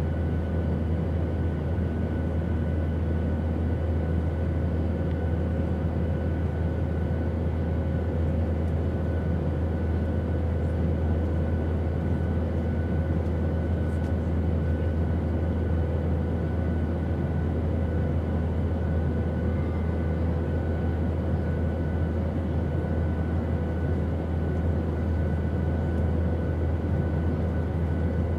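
Steady airplane noise: an unchanging deep drone with faint steady whining tones above it.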